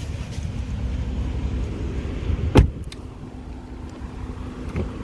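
An Audi SQ7's door shutting with a single heavy thud about halfway through, over a steady low rumble.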